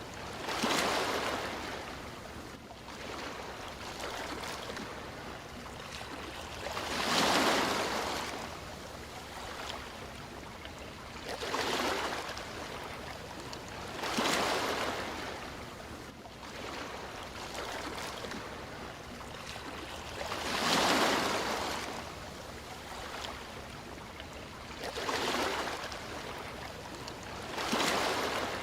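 Sea waves washing onto a shore: about seven surges of hissing surf, each swelling and fading over a second or two at uneven intervals, over a constant low wash.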